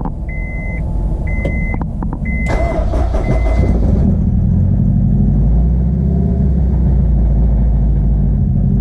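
Turbocharged Honda S2000's freshly swapped F22C 2.2-litre four-cylinder starting up on a jump box. It catches about two and a half seconds in and settles into a steady idle. A repeating beep, roughly once a second, sounds until it starts.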